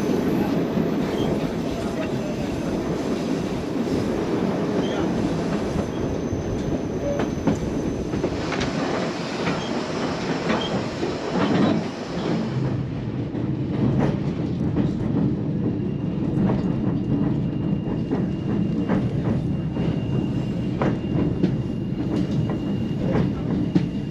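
Narrow-gauge passenger train heard from inside a coach: a steady rumble of wheels on the rails, with sharp clicks and clacks that come more often from about halfway through.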